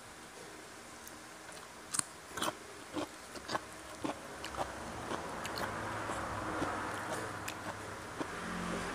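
Crunching of crisp fried catfish being bitten and chewed, a run of sharp crunches starting about two seconds in. In the second half a steady rushing noise swells up beneath it.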